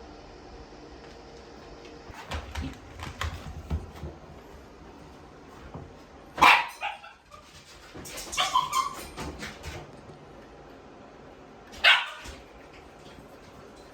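Shiba Inu barking: a sharp bark about six seconds in, a quick run of yips and whimpers just after, and another sharp bark near the end, with some scuffling and light thumps before the first bark.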